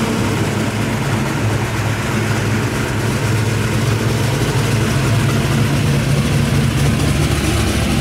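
Classic Plymouth muscle car's engine rumbling at low speed as the car rolls slowly past, a steady deep burble that grows a little louder in the second half.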